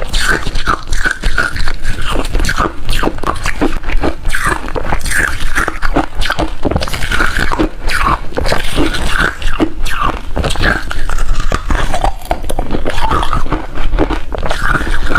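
Hard refrozen ice being bitten and chewed close to the microphone: a loud, unbroken run of crunches and crackles.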